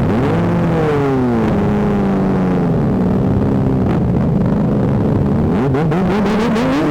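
Motorcycle engines revving up and down in passing: a quick rise in revs at the start that falls away, a steadier stretch, then more wavering blips of the throttle near the end.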